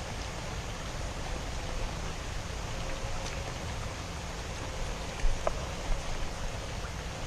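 Steady hiss of rain falling, with a few light taps about five seconds in.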